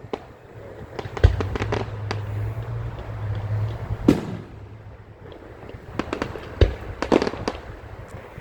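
Fireworks display: aerial shells bursting with three loud booms a few seconds apart, with quick bursts of crackling between them.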